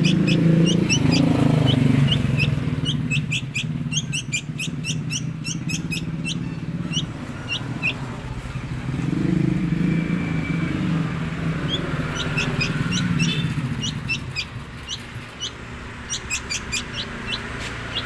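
Nestling birds giving rapid runs of short, high begging chirps as they are hand-fed. A vehicle engine rumbles low in the background, swelling at the start and again about halfway through.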